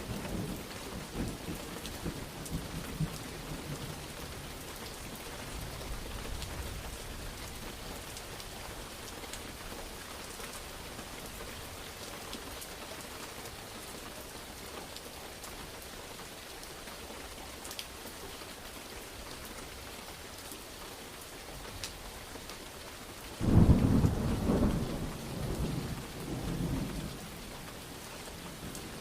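Steady rain falling, with a low thunder rumble dying away over the first few seconds. About three-quarters of the way through, a loud clap of thunder breaks in and rumbles for a few seconds before fading back under the rain.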